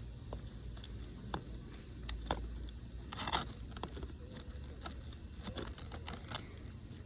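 Old 3-tab asphalt shingles being pried up off the roof, crackling and tearing in small snaps, with a louder rip about three seconds in. The brittle, sun-aged shingles are tearing as their seal is broken, a sign they cannot be repaired.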